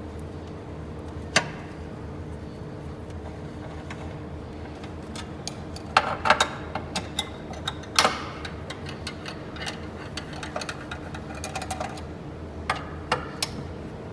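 Metal hand tools clinking and knocking on engine parts: scattered sharp clicks, a cluster of them about six seconds in and a loud knock about two seconds later, over a steady background hum.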